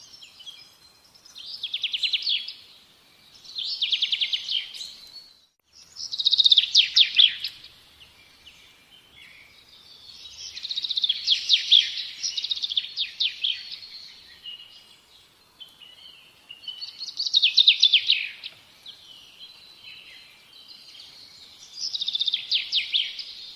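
A small songbird singing phrases of fast, high-pitched trilled chirps, a new phrase every two to five seconds.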